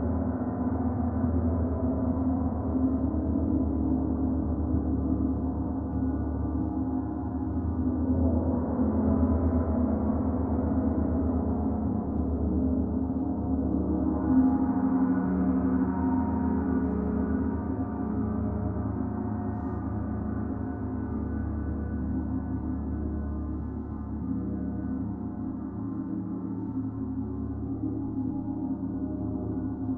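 Gong ringing in a continuous, sustained wash of low hum and layered overtones. It swells brighter about eight seconds in and again around fourteen seconds in, as it is played up.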